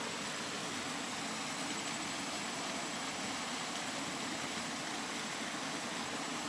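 Steady rain: an even, continuous hiss of falling rain that holds the same level throughout.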